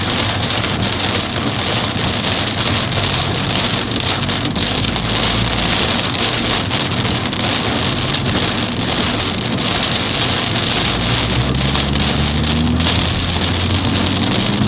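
Torrential downpour drumming steadily on a car as it drives through the storm. Near the end the car's engine note rises as it speeds up.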